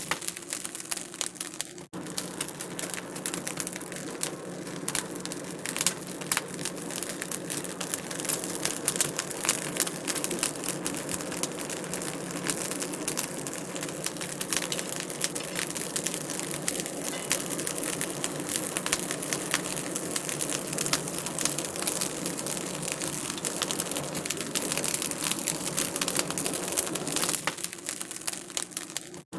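Wood fire crackling in a fireplace, with a steady stream of small sharp pops and snaps.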